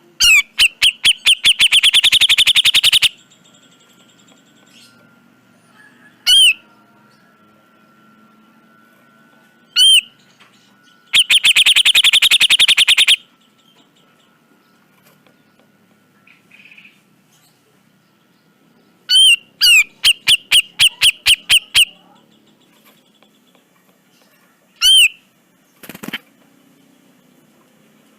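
Cucak jenggot (grey-cheeked bulbul) calling: single loud notes that rise and fall, alternating with fast, harsh chattering runs of many repeated notes, each run lasting two to three seconds. A short thump comes near the end.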